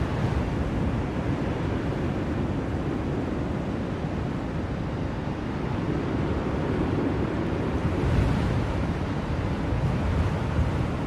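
Blizzard wind blowing, a steady low rushing noise that swells briefly in a gust about eight seconds in.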